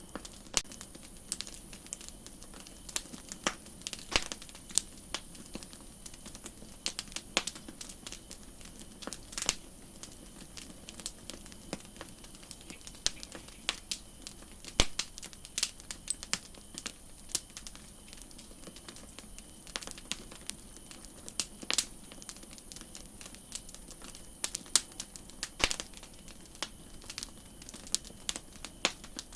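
Campfire crackling: irregular sharp pops and snaps of burning wood, a few louder ones standing out, over a steady faint hiss.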